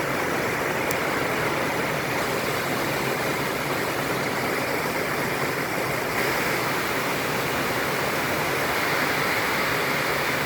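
Heavy rain falling steadily, an even hiss with no pauses.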